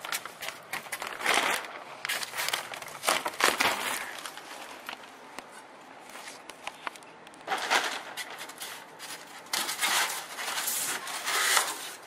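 Irregular crinkling, crackling and snapping of wall materials (styrofoam, plastic sheeting, drywall) being torn away during demolition, with several louder bursts.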